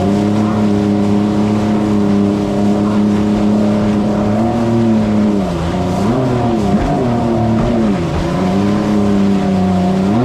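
Stand-up jet ski engine running at steady throttle. In the second half the throttle is eased off and opened again several times, the engine note dropping and rising.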